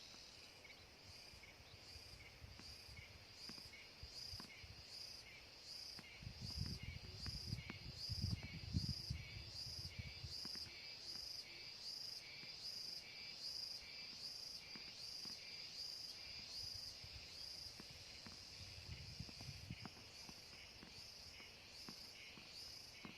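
An insect, cricket-like, chirping steadily in a regular rhythm of about one chirp a second. Low rumbling swells for a few seconds about a third of the way in.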